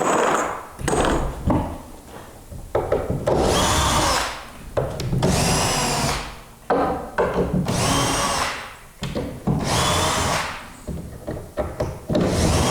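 Cordless drill-driver run in repeated bursts of about a second each, around five times, taking the screws out of a wooden shipping crate.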